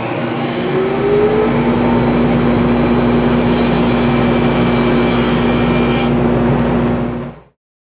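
Table saw with a high-tooth-count crosscut blade running steadily, cutting a cherry board. The sound stops abruptly near the end.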